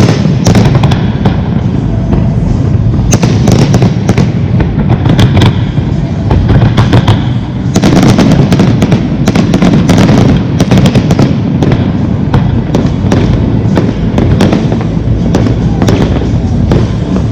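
Fireworks display: rapid, overlapping bangs and crackles over a continuous rumble, with no break.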